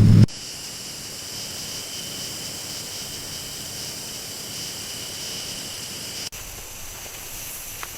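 A low rumble cuts off abruptly just after the start, leaving a steady insect chorus: a high hiss with several steady high-pitched whines. It drops out for an instant about six seconds in.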